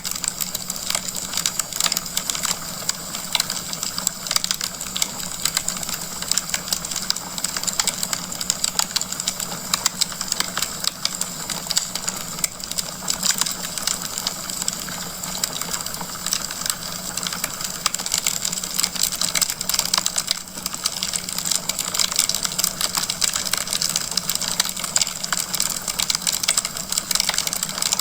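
Wood fire crackling in a fireplace: a dense, steady stream of small rapid pops and snaps over a soft hiss of burning.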